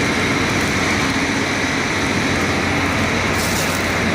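Caterpillar 3406 inline-six diesel engine running steadily, with a short hiss about three and a half seconds in.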